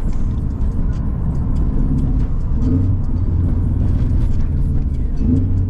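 Cabin noise of a 2011 Subaru WRX on the move: a steady low engine and road rumble, with many small rattles and ticks from driving over rough pavement.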